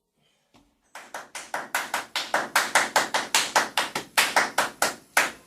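A rapid, even run of sharp taps, about five a second, starting about a second in and getting louder over the first couple of seconds.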